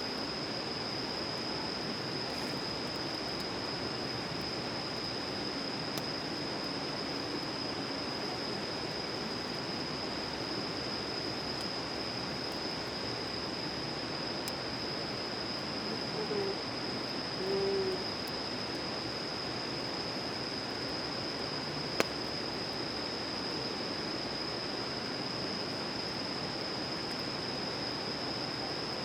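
An owl hooting twice, two short low hoots about a second apart, partway through, over a steady hiss and a constant high-pitched whine. Late on, the campfire gives one sharp pop.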